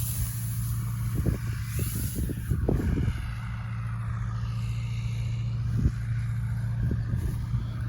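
Tractor engine running at a steady speed, with a few short low thumps and knocks scattered through it.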